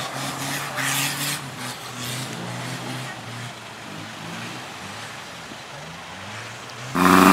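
Off-road 4x4 vehicle's engine running, its pitch rising and falling gently as it is driven. A sudden loud burst of noise cuts in near the end.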